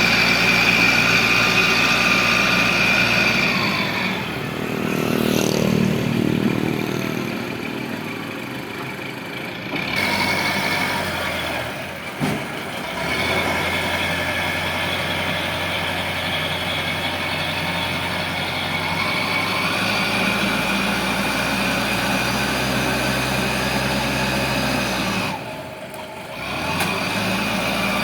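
Engines of a sand loader and a dump truck running, rising and falling in speed, with a single sharp knock about twelve seconds in.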